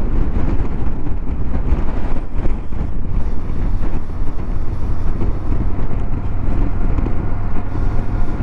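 Moto Guzzi V85TT's air-cooled transverse V-twin running at a steady road speed, mixed with wind rushing over the microphone in a strong crosswind.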